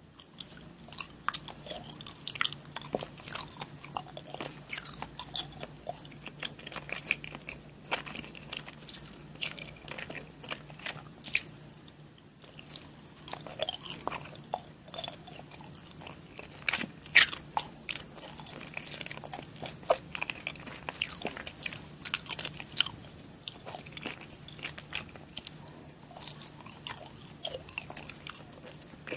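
Close-up biting and chewing of sugar-dusted purple candy bars: a steady run of crisp crackles and wet clicks, with one sharp, loud crunch about 17 seconds in. A faint low hum lies under it.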